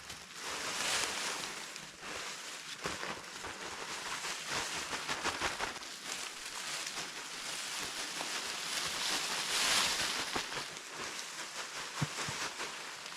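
Continuous rustling with many small crackles and snaps, swelling about a second in and again near the end.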